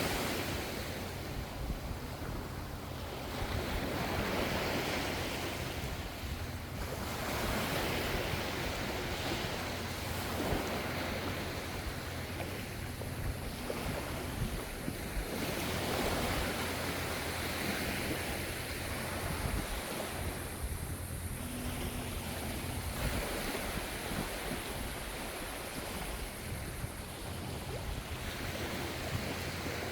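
Gentle ocean waves breaking and washing on the shore, the surf swelling and easing every few seconds over a steady low rumble of the sea.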